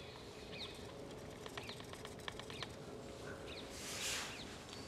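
Woodland birds calling faintly in short, falling chirps. There are a few light clicks in the middle and a brief rustle near the end.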